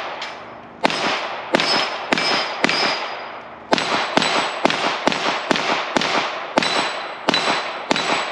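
.22 rimfire pistol fired rapidly at a steel plate rack, about two shots a second with one short pause about three seconds in. Hit plates ring faintly after the shots.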